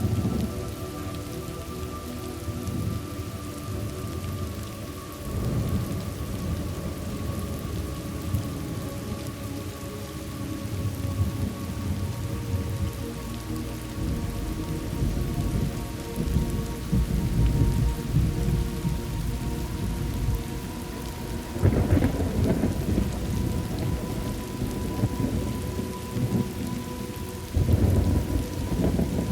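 Thunderstorm: steady rain with low rolls of thunder swelling up several times, the loudest about two-thirds of the way through and again near the end.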